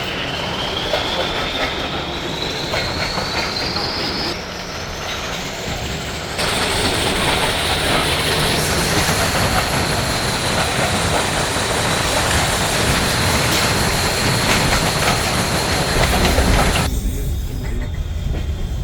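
Heritage train running along the track: rail and wheel noise with a high wheel squeal that climbs in pitch over the first few seconds and then holds steady. The running noise gets louder about six seconds in and drops away sharply near the end.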